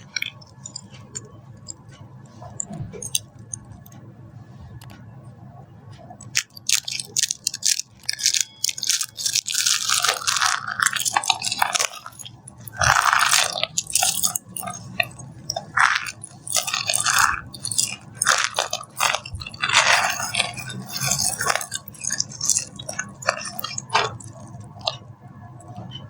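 Dry soap being crushed, a dense run of crisp crackling crunches that starts about six seconds in after a few faint ticks.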